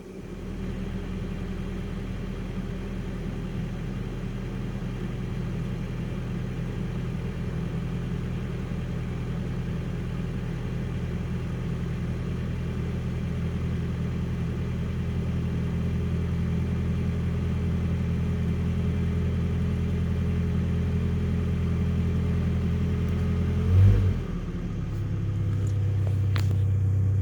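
Vehicle engine idling steadily on a cold morning, its low note slowly getting louder. About 24 s in there is a brief louder surge, after which the idle note settles at a different pitch.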